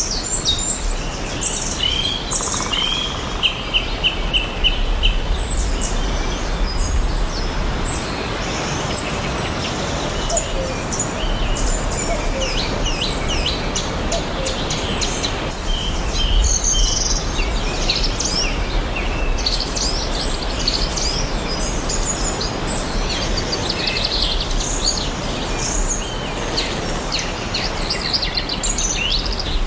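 Several birds chirping and singing throughout, many short calls and trills overlapping, over a steady even background hiss and a low rumble.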